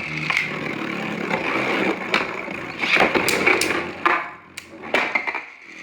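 Beyblade Burst spinning tops whirring and grinding around a plastic stadium, with sharp clacks as they collide several times.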